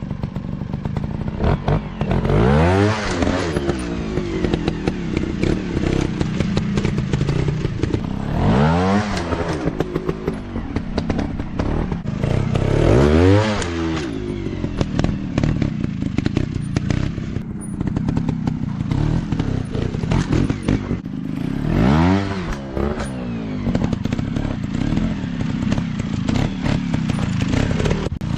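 Dirt bike engine revving under hard throttle, its pitch climbing and falling back several times over, with knocks and clatter mixed in.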